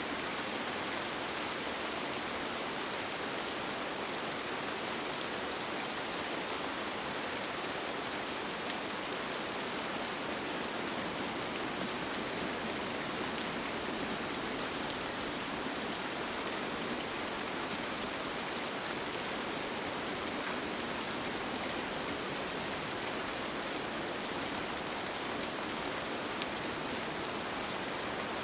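Steady rain on a tent, an even hiss with faint scattered drop ticks.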